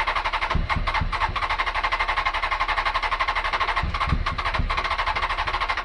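Electric starter cranking the four-cylinder engine of a Honda CBR900RR Fireblade with a fast, even churning rhythm and a few low thuds, without the engine catching. It is a cold start on choke after two years unused. The cranking cuts off abruptly near the end.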